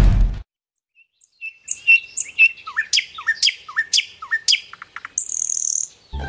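Small songbird chirping: a quick series of short, sharp, high calls, about two a second, followed by a brief high buzzy trill. A low whoosh cuts off about half a second in, and music begins right at the end.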